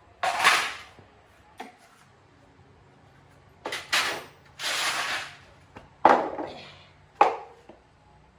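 A series of short clattering knocks and scrapes, about six in all, each fading quickly: hard objects such as tools or parts being handled and set down.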